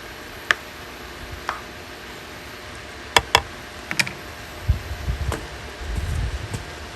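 Kitchen utensils tapping and clicking against cookware: a few sharp separate clicks, two in quick succession about three seconds in, then low dull thumps near the end.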